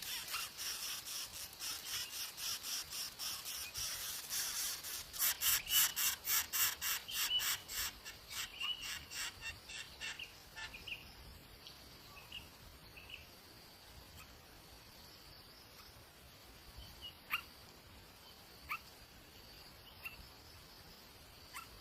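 Nestling birds calling in a fast, even series of high chirps, about four a second, growing louder for several seconds and then fading out about ten seconds in. Afterwards only a faint steady high insect drone and a few separate ticks remain.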